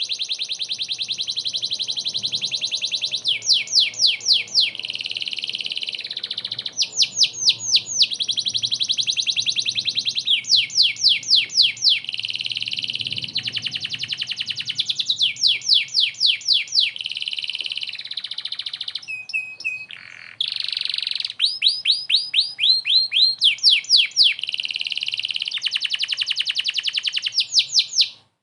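Canary in full song: long, very fast trills alternate with louder runs of quick rising sweeps repeated several times a second. The song continues almost without pause, with a short break about twenty seconds in.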